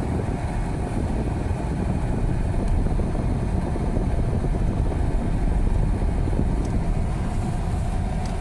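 Car driving along a road, a steady low rumble of engine and tyre noise heard from inside the cabin.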